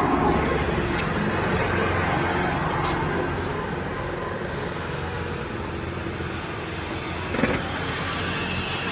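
Car-wash machinery running: a steady motor hum under a continuous high hiss, with a brief knock near the end.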